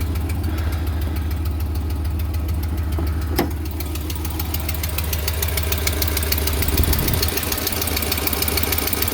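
2021 Ram pickup's V8 idling with a fast, even exhaust tick, clearer from about halfway through, and one sharp knock about three and a half seconds in. The owner puts the tick on the driver's side and takes it for the replacement exhaust manifolds leaking.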